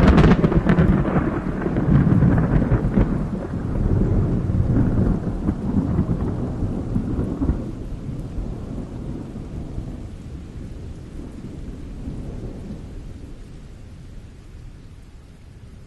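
Thunder rolling in after a close strike: a few sharp crackles at the start, then a long low rumble that swells again several times and dies away slowly toward the end.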